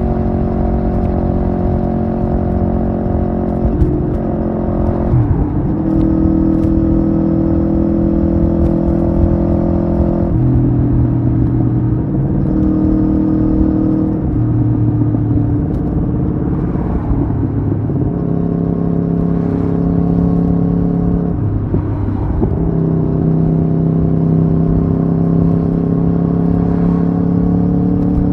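Aprilia Tuono V4R's V4 engine running under way at a steady speed, its note holding level for a few seconds at a time and then stepping to a new pitch, several times over, with a slow rise near the end.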